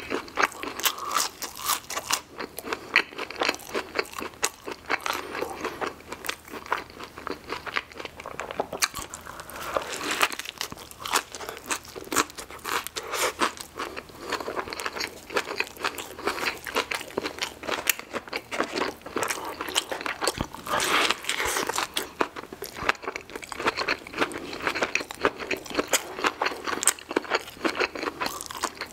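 Close-miked chewing and crunching of crispy waffle fries and a fried chicken sandwich: many irregular crackles and crunches with wet mouth sounds, going on without a break.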